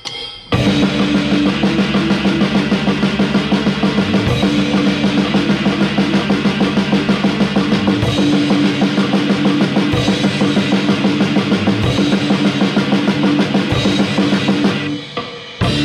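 Drum kit and electric guitar playing a rock passage together at a fast, steady beat. It starts about half a second in and breaks off shortly before the end.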